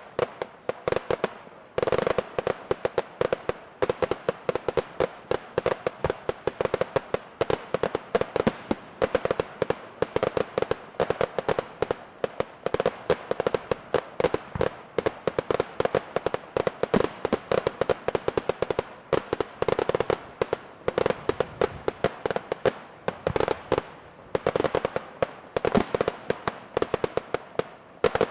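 Fireworks going off in a dense, continuous barrage of rapid bangs and crackles, many per second, growing louder about two seconds in.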